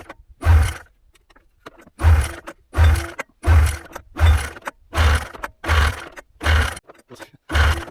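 Snowmobile engine, the Arctic Cat 500 two-stroke in a 1998 Yamaha VK540, being pull-started over and over: nine quick pulls, each a short burst of the engine turning over, with a pause after the first. It does not catch, a no-start that the owner suspects is down to old, never-changed spark plugs.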